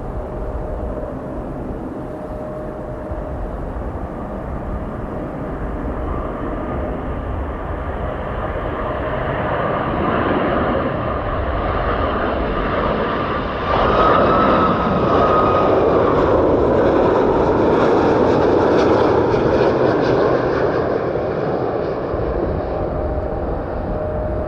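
Airplane engines passing close by: a rising rush of engine noise that jumps louder about 14 seconds in, with a brief high whine, then slowly eases off.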